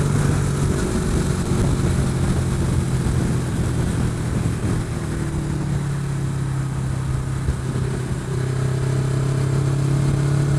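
Motorcycle engine running steadily at highway cruising speed, with wind rushing over the helmet-mounted microphone.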